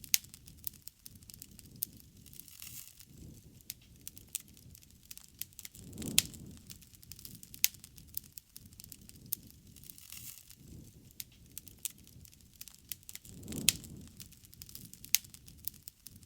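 Wood bonfire crackling, with frequent sharp pops and snaps throughout. A low rushing sound swells twice, about six seconds in and again near the end.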